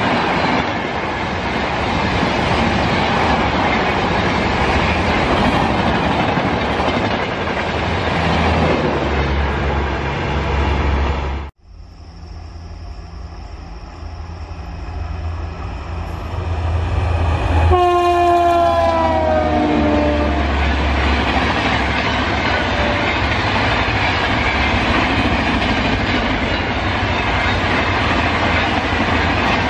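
A train of red express coaches passes at speed, with steady wheel-on-rail noise and clickety-clack, until a sudden cut about a third of the way in. After a quieter stretch, a second express train's electric locomotive sounds its horn about 18 seconds in, the pitch dropping as it passes. Then its coaches run past with loud wheel-on-rail noise to the end.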